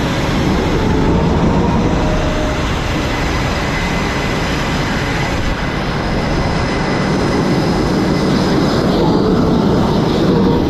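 Jet aircraft engines running on a carrier flight deck: a loud, steady roar with a thin, high whine held throughout.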